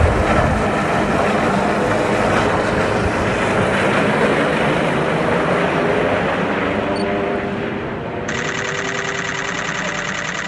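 Rescue helicopter's rotor and turbine noise, a loud steady rush with gusts of wind on the microphone at the start. About eight seconds in, it cuts abruptly to a steadier drone with a fast even rhythm.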